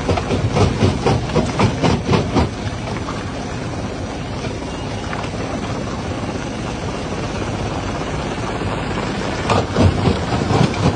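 Rock jaw crusher running, with a steady heavy-machinery drone and clusters of knocks as stone is crushed, over the first two and a half seconds and again near the end.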